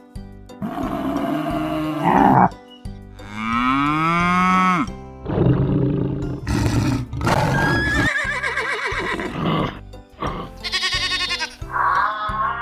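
A string of animal call sound effects, some like livestock, one after another over light background music.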